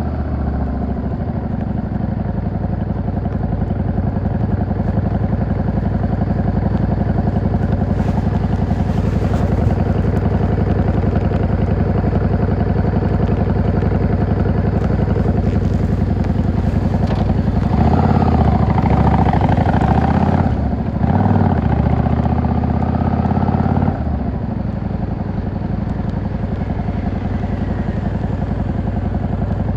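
Yamaha XVS 650 V-Star's air-cooled V-twin engine and exhaust running under way. About two-thirds through it gets louder for some six seconds, with a brief dip partway, then settles back to a steady run.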